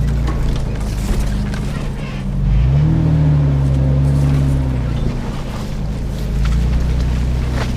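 Nissan Xterra's engine running under load off-road. It revs up about two and a half seconds in, holds the higher pitch for a couple of seconds, then eases back down.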